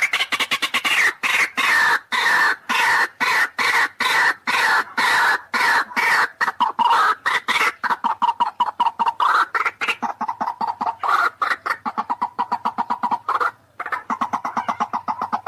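White-breasted waterhen (ruak-ruak) calling: a long, fast run of repeated harsh, croaking notes, the rail's loud territorial chorus used as a lure call.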